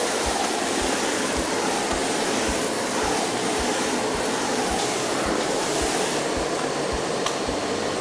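Miele Blizzard bagless vacuum cleaner running steadily as its universal floor head is pushed over a hard floor. A soft, regular beat of background music plays underneath.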